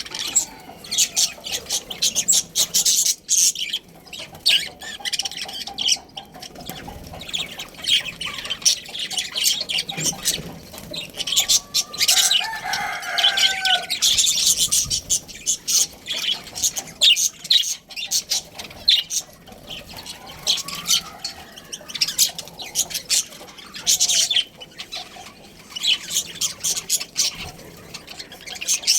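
A flock of budgerigars chirping and chattering rapidly, with no let-up. About twelve seconds in, a longer, lower call lasts about two seconds.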